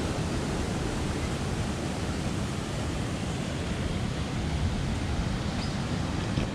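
Steady rushing of water pouring fast through a channel swollen by heavy rain, an even noise with no breaks.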